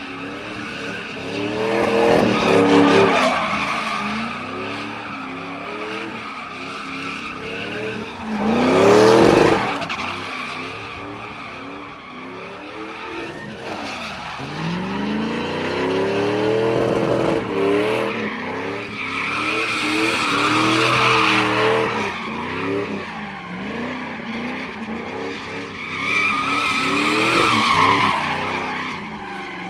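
Modified 2002 Chevy Silverado with headers and an aftermarket exhaust, its engine revving up and falling back again and again, with one sharp, loud surge about nine seconds in.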